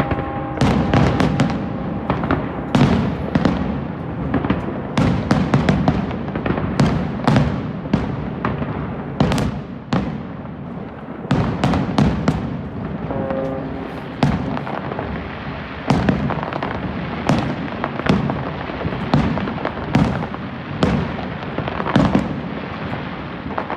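Aerial fireworks display: shells bursting in rapid succession, several sharp cracks and bangs a second over a continuous low rumble of echoing booms.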